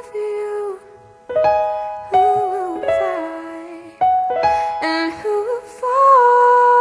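Piano chords with a young female voice singing a slow song over them, ending on a long held note.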